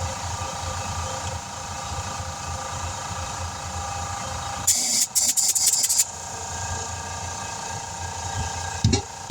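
A small engine running steadily, with a burst of compressed air hissing in short spurts about five seconds in, during tire inflation work.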